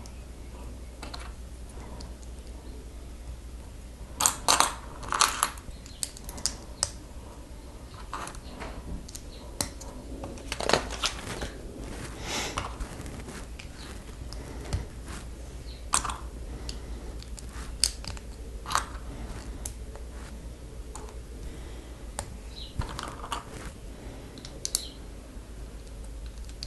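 Plastic Lego pieces clicking and clattering as they are handled and pressed together, in scattered sharp taps with a busier cluster about four seconds in and another around ten seconds in, over a steady low hum.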